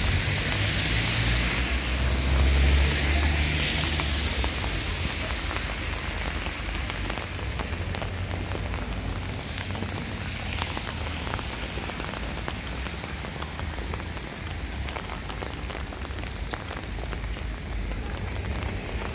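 Steady rain falling on wet pavement and street, an even hiss, with a low rumble during the first few seconds.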